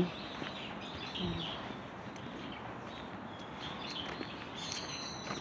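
Outdoor background noise with small birds chirping now and then; a brief high chirp stands out near the end.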